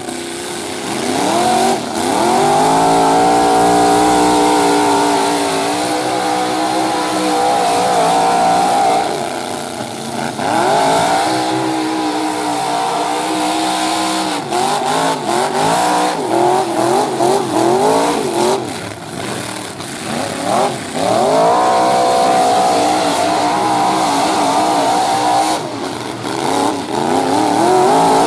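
Engines of several modified full-size pickup trucks revving hard, their pitch climbing and holding high over and over as they accelerate, with a few sharp bangs about halfway through.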